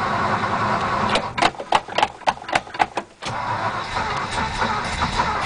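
Ford 292 Y-block V8 being cranked on the starter in a cold start. About a second in, it fires in a run of roughly eight sharp pops as it briefly tries to catch, then dies, and the starter cranks on. It is cold-blooded and won't keep running, which the owner blames on fuel starvation, saying there is probably no gas in it.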